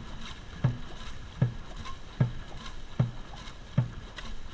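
Dragon boat crew paddling at race pace: a low thump on every stroke, about three strokes every two seconds, with lighter water splashes between and steady water noise underneath.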